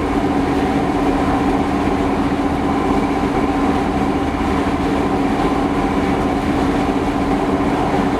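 Steady engine drone and road noise inside a vehicle cruising at highway speed, the engine turning under 2,000 rpm, with a constant hum.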